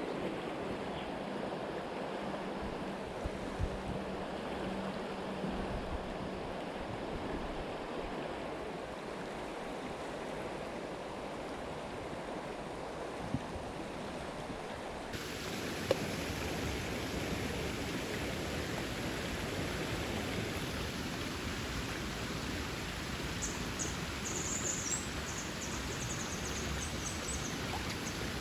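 Creek water running steadily. About halfway through the sound changes abruptly and turns brighter and hissier. Faint high chirps come near the end.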